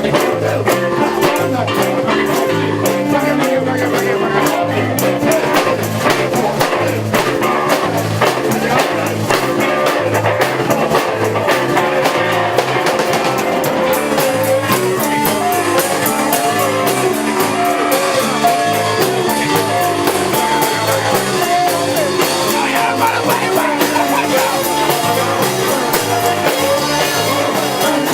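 Live rock band playing a song, with electric guitar, bass and drum kit and some singing; the cymbals get brighter about halfway through.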